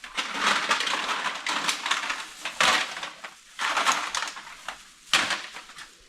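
Empty aluminum drink cans crinkling and clattering as they are handled in bunches, in four or five loud spells with short gaps between.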